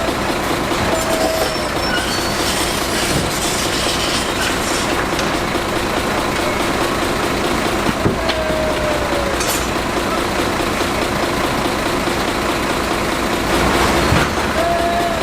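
Heavy construction machinery running steadily, with a clanking metallic rumble. Short squeals that glide down in pitch break through it now and then, a longer one midway.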